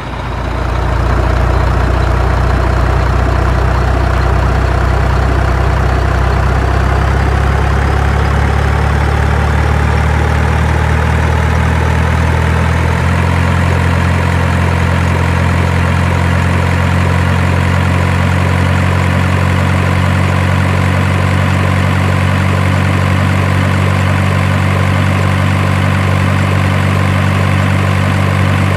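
An engine starts up and runs steadily. Its pitch rises slowly through the first half, then holds steady with a slight shift in its low hum about halfway through.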